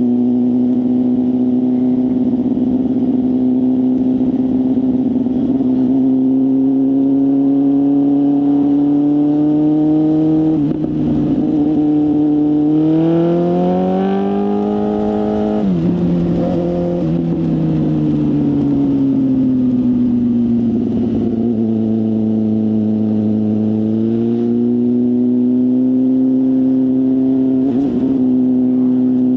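BMW S1000RR inline-four running through a full aftermarket exhaust under way. The steady engine note climbs in pitch for a few seconds about halfway through, drops abruptly, then falls away slowly before levelling out again.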